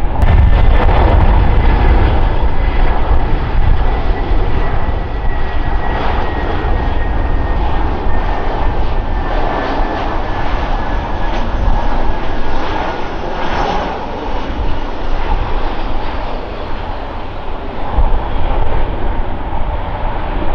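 Passenger airliner's engines running loud and close, a deep rumble with a faint high whine that slowly falls in pitch as the aircraft passes.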